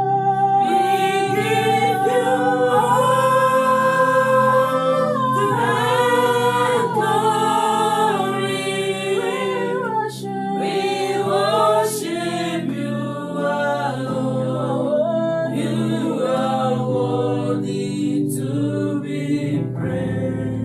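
Voices singing a slow Christian worship song, holding long notes that slide up and down in pitch.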